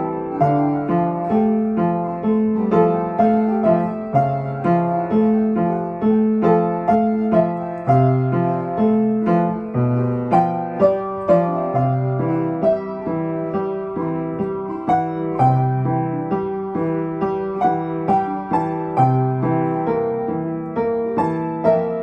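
Piano playing a piece at a moderate pace, single notes and chords struck a few times a second over a moving bass line and left to ring.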